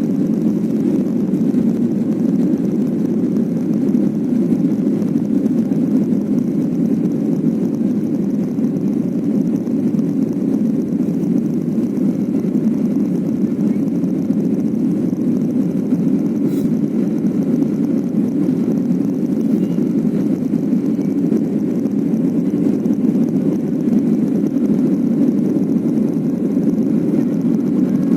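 Steady cabin noise of a Boeing 737 airliner in flight: an even, low rush of engines and airflow, heard from inside the passenger cabin.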